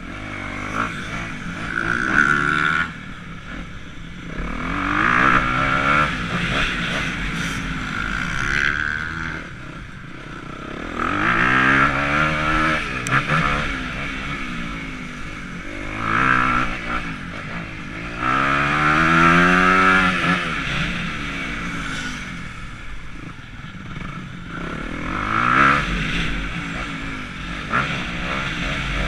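Dirt bike engine being ridden hard, revving up and backing off again and again, its pitch climbing and falling in repeated surges.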